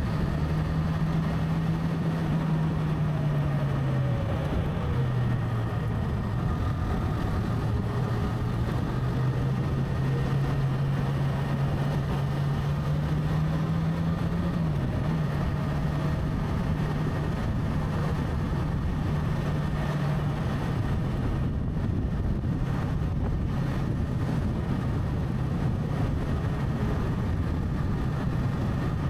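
Motorcycle engine running while riding. Its note dips about four seconds in, climbs slowly, then drops abruptly about halfway and holds steady, over constant wind and road noise.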